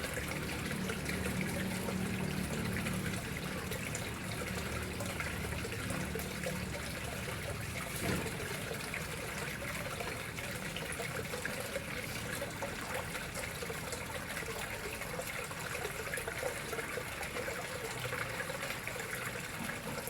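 Water flowing and trickling steadily into a koi pond, with a low rumble under it in the first few seconds and a brief knock about eight seconds in.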